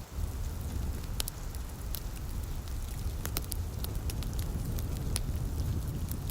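Wood fire crackling, with irregular sharp pops over a steady low rumble, mixed with light rain.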